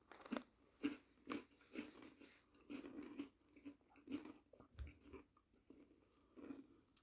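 A person chewing a crunchy buffalo-flavoured snack close to the microphone: faint, irregular crunches, roughly two a second.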